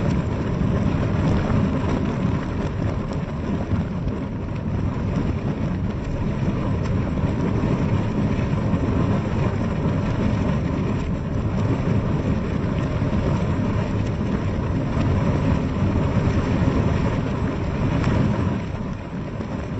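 Steady rain falling on a window: a dense, even wash of drops with a deep low rumble, easing a little near the end.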